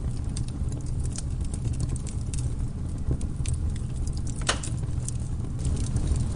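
Campfire crackling: frequent short snaps and pops, one louder pop about four and a half seconds in, over a steady low rumble.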